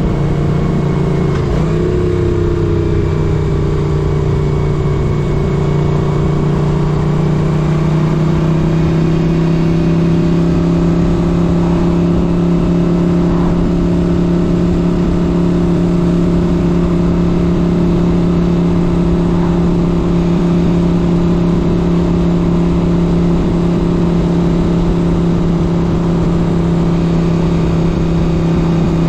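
1978 Moto Guzzi 850 Le Mans's air-cooled V-twin engine running under way, its note dipping about two seconds in and then holding steady.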